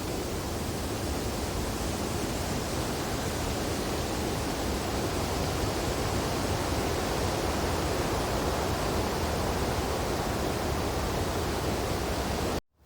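Wind blowing steadily through tree branches, a continuous rushing hiss that swells slightly mid-way. It cuts out abruptly for a moment near the end.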